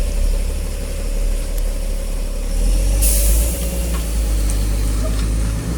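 KamAZ dump truck's diesel engine running with a steady low rumble as it drives slowly past. A short hiss of its air brakes comes about three seconds in.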